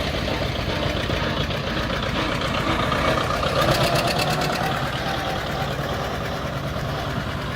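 A John Deere two-cylinder tractor engine running with a steady, even beat.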